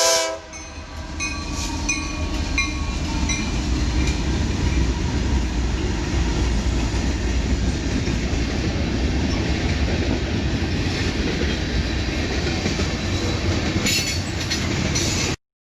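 A train passing close by: the last moment of a horn blast right at the start, then the steady rumble and clatter of wheels and cars over the rails, with a few brief wheel squeals in the first few seconds. The sound cuts off abruptly just before the end.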